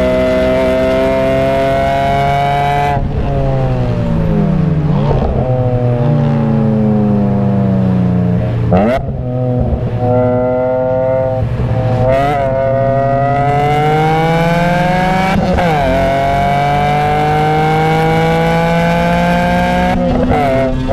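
BMW E46 M3's 3.2-litre S54 inline-six heard from inside the cabin on track. It pulls hard, then drops away about three seconds in as the driver lifts to brake, with quick rev-matching blips on the downshifts. It then winds back up through the revs, shifting up again with a short dip near the end.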